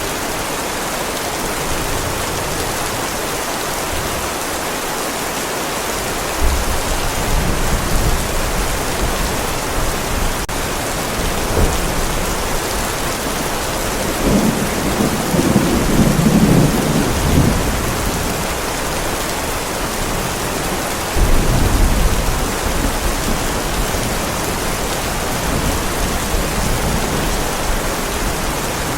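Heavy rain pouring steadily onto a driveway, with low rolls of thunder swelling in about six seconds in, longest and loudest around the middle, and again about twenty-one seconds in.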